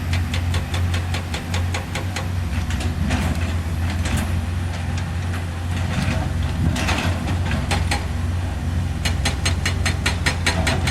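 Heavy earthmover's diesel engine running steadily, with a rapid run of sharp metallic clicks and clanks over it that grows densest near the end.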